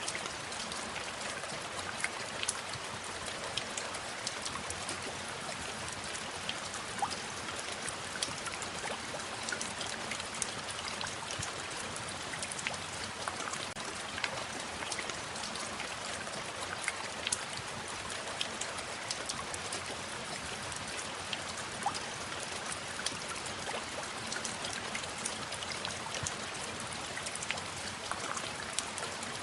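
Steady rain falling, an even hiss with many separate drops ticking sharply through it.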